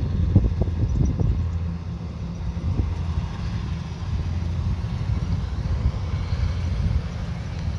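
Kubota combine harvester's diesel engine running steadily under harvesting load, a low, even drone with a few short knocks in the first second or so.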